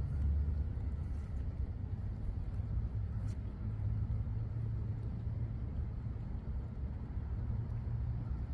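Low, steady rumbling noise with no clear tune or voice in it.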